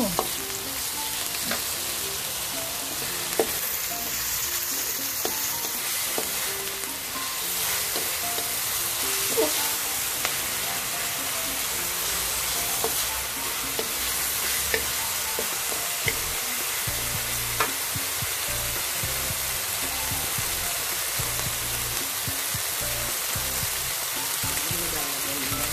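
Onion, garlic, ginger and shrimp paste sizzle in hot oil in a metal pan while a plastic spatula stirs them, with an occasional sharp tap of the spatula against the pan.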